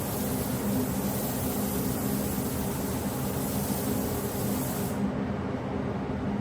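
Steady workshop machine noise: a motor hum under a hiss. About five seconds in, the high part of the hiss cuts out abruptly.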